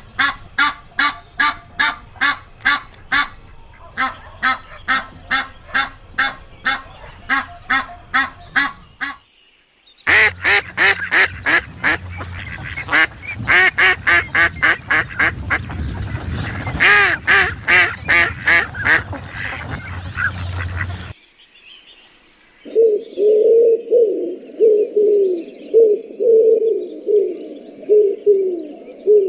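Waterfowl calling in quick repeated honks, about three a second, in two stretches that each cut off abruptly. About two-thirds of the way through, lower pigeon-like cooing takes over.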